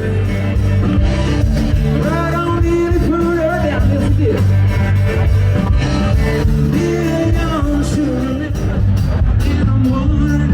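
Band music with a singer and guitar over a steady heavy bass line.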